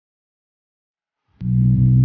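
Silence for over a second, then a turbocharged B13 Nissan Sentra's engine cuts in abruptly as a steady low drone heard from inside the cabin, running at light load in vacuum rather than boost.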